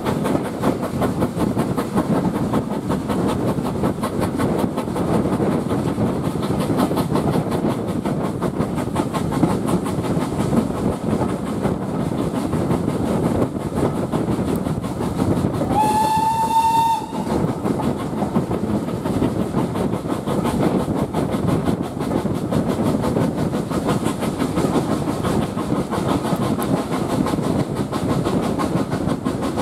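Steam train running, a steady rail running noise throughout. About halfway through, the steam locomotive's whistle sounds once for about a second, sliding slightly up in pitch.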